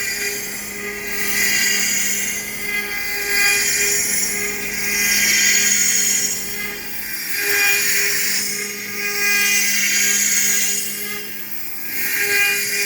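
Home-built CNC router's spindle running with a steady whine while its cutter clears a pocket in pine on a 2D adaptive pass. The cutting noise swells and eases every couple of seconds as the tool moves through the wood.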